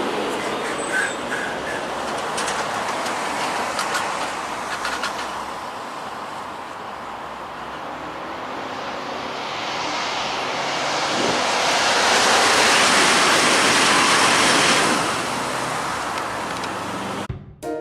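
Steady motorway road noise of a car being driven, swelling for several seconds in the middle as traffic passes close by. Music starts abruptly just before the end.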